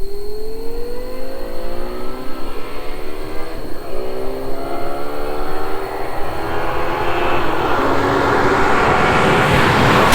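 High-revving supercar engine accelerating hard, its pitch climbing steadily, with a gear change about four seconds in before the revs climb again. It grows louder toward the end as the car comes closer.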